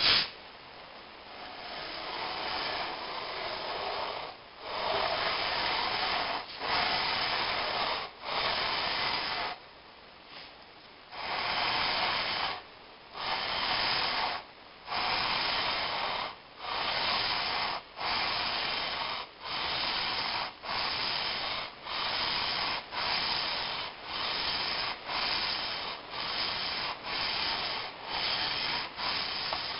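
Repeated hand strokes of abrasive scrubbing on the aluminium cylinder head's gasket face, a scratchy rasp with a short break between strokes. The strokes settle into an even rhythm of about one a second, briefly stopping partway through.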